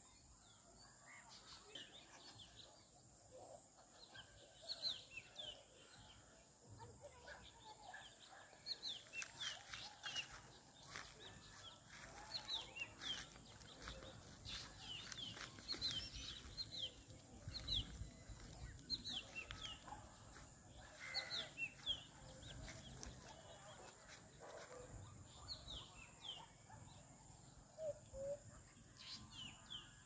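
Birds calling faintly: many short, high chirps that fall sharply in pitch, scattered throughout, with a couple of lower paired notes near the end.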